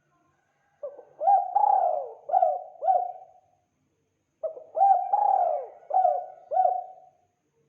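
Spotted dove cooing: two phrases of about five coos each, the first starting about a second in and the second about four and a half seconds in, with a short silence between them.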